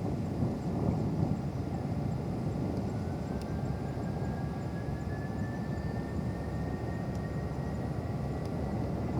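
Distant jet airliner engines rumbling steadily, with a faint whine rising slowly in pitch from about three seconds in.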